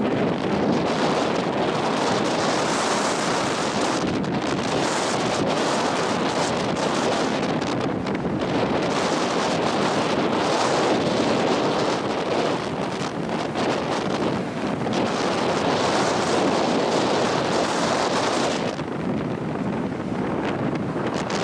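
Strong wind buffeting the microphone, loud and gusting, swelling and easing every few seconds, with breaking surf beneath it.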